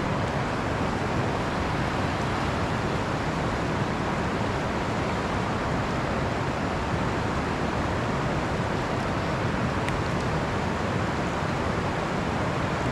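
A river rushing steadily over rocks: a constant, even roar of water.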